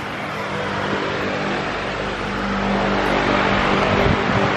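A car running on the road: a steady engine hum under tyre and wind noise, growing louder about three seconds in.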